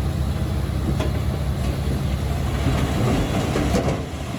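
Komatsu D21P crawler bulldozer's diesel engine running under load, with its steel tracks clanking.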